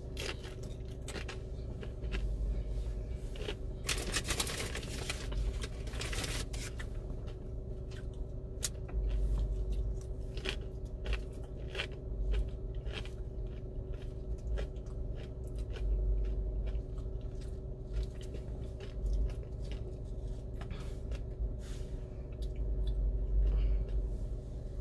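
Close-miked chewing and crunching of a mouthful of cheesy dip on a chip, with many small wet mouth clicks and a denser run of crunching about four to six seconds in. A steady low hum runs underneath.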